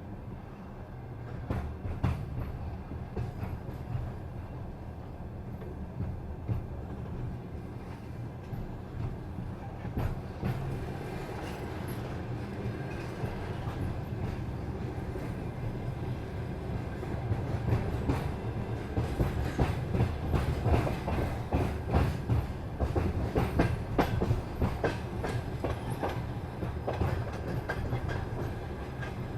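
Passenger train running over jointed rail: a steady low rumble with the wheels clicking at each rail joint. The clicks grow louder and come more often from about two-thirds of the way in.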